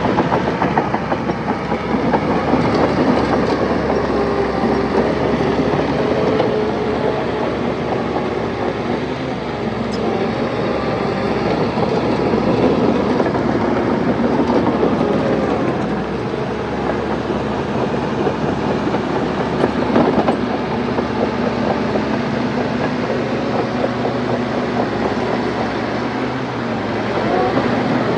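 Crawler bulldozer working, its diesel engine running under varying load with the steel tracks clanking and rattling.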